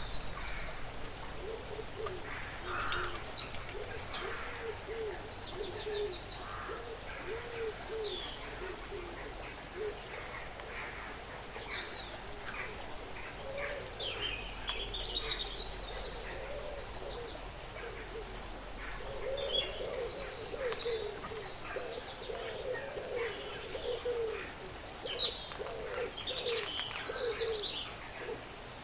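Several woodland birds chirping and whistling at once, with a low, repeated warbling call running underneath most of the time and a few faint clicks.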